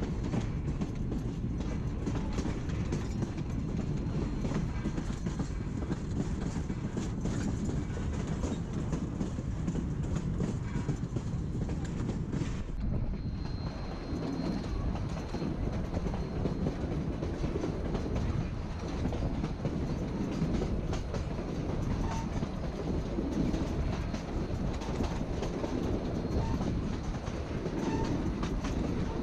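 Narrow-gauge passenger train rolling steadily along, heard from onboard: a continuous rumble of the cars with the clickety-clack of wheels over the rail joints.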